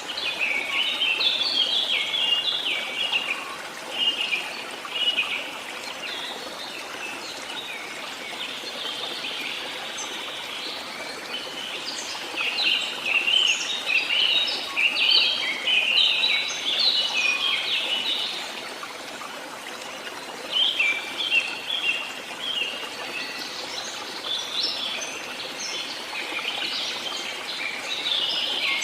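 Songbirds singing in bouts of rapid, twittering chirps, with a long burst in the middle and more near the end, over a steady rush of running water.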